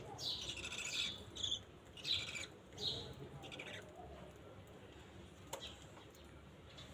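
Budgerigars chirping: a quick run of short, high chirps for about three seconds, then quieter.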